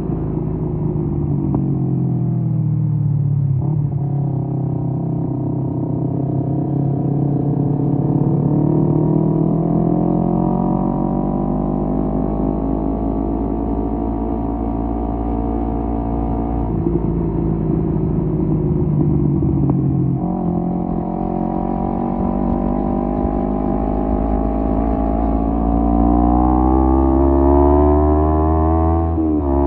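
Kawasaki Z250 parallel-twin engine through an aftermarket SeaPro muffler while riding, its exhaust note rising and falling with the throttle. The pitch eases off early on, climbs slowly, and drops in steps, with a long climb and a sudden drop near the end like a gear change.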